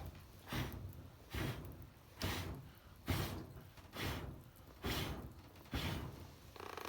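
A regular series of swishing strokes, about eight of them, a little more than one a second, each swelling and fading.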